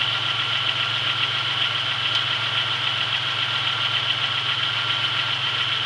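Chevrolet Beretta's 3.1-litre 3100 V6 idling steadily, still warming up after a cold start.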